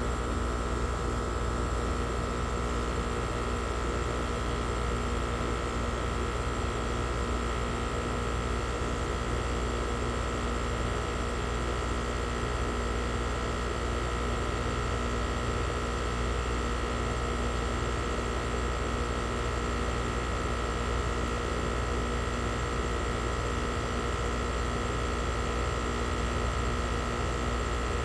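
Air-conditioning unit running: a steady machine hum with a few fixed tones over a constant rush of air, unchanging throughout.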